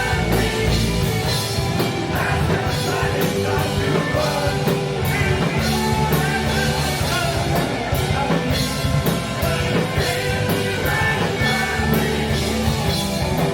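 A rock band playing live and loud, with drum kit, guitars and a singing voice.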